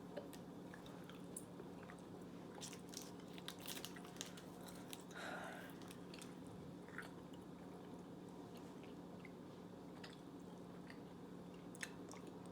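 Faint chewing of a cherry Airheads taffy candy: scattered soft mouth clicks and smacks over a steady low hum.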